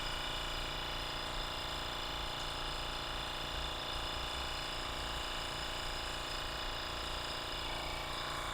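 Mitutoyo RA-1500 roundness measuring instrument running, a steady mechanical hum with several constant tones.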